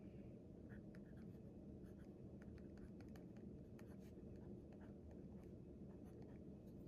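Pen writing on paper, heard faintly as a string of short scratches and taps, over a low steady room hum.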